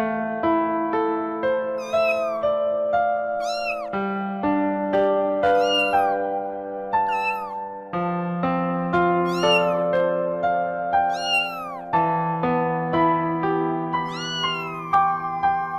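A cat meowing repeatedly, about seven high calls that rise and then fall in pitch, over background electric piano music.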